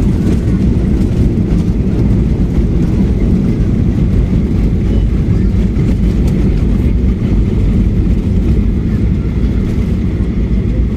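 Steady, loud low rumble of a Boeing 737-8's engines and rushing air, heard inside the passenger cabin.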